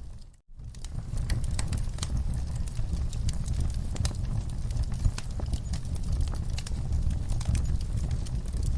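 Wood fire burning in a fireplace: a steady low rumble of the flames with frequent small crackles and pops. The sound cuts out for a moment about half a second in, then resumes.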